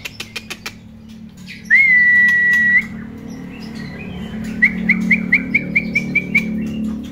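Songbird calls: a single long steady whistle about two seconds in, then a quick run of short rising notes, about five a second, with sharp clicks scattered through, over a low steady hum.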